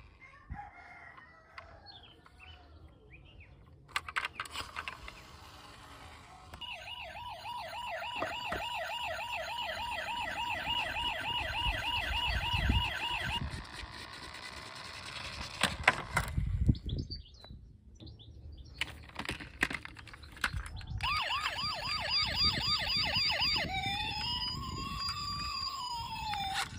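Electronic siren of a battery-powered toy emergency vehicle: a fast warbling siren that runs for about seven seconds and stops, then comes back after some knocks and clatter. Near the end the fast warble changes to a slower rising-and-falling wail.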